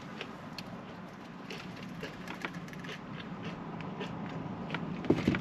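Close-miked chewing of fried jalapeño poppers: small irregular mouth clicks and crunches over a steady low hum, with a brief hum of the voice near the end.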